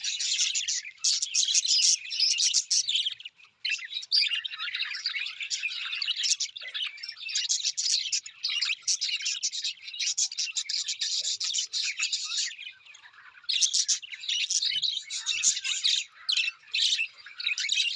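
Birds chirping and twittering in a dense, unbroken chatter of many quick calls, with brief lulls about three and a half seconds in and again around thirteen seconds.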